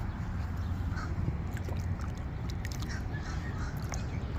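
A few short, harsh bird calls over a steady low rumble.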